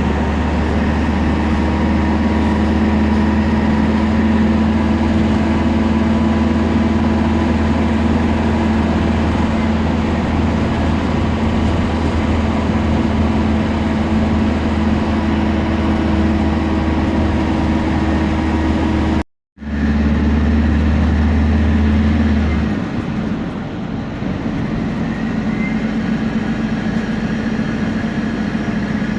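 Temsa Prestij SX midibus engine running with a steady, loud drone. The sound cuts out completely for a moment about two-thirds through, and soon after the deep hum drops away as the engine note changes.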